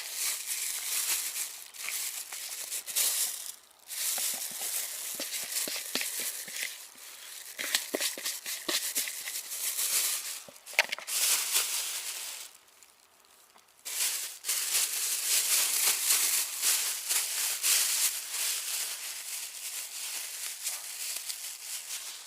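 Rustling and crinkling from material being handled, with scattered small clicks, breaking off for about a second and a half roughly halfway through.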